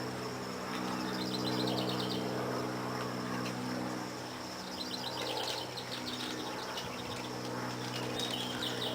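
Small birds chirping in quick trills, several short runs of rapid chirps, over a steady low hum.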